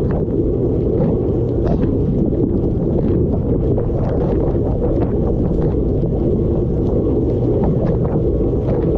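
Dishwasher mid-cycle heard from inside the tub: a steady, deep rush of water sprayed by the spray arms over the circulation pump's running, with many small taps of water striking the dishes and the camera.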